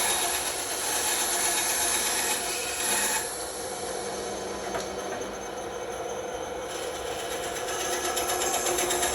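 Bandsaw running, its blade cutting through wood. About three seconds in, the cutting noise drops and the saw runs more quietly, then builds again, with a fast regular pulsing near the end.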